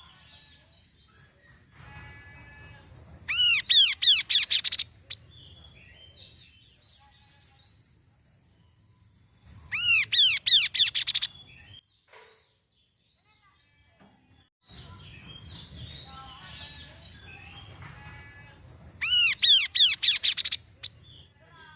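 Kaso-kaso songbird singing energetically: three loud bursts of fast, ringing repeated notes, each lasting about two seconds, with softer scattered chirps between them. There is a brief silent break near the middle.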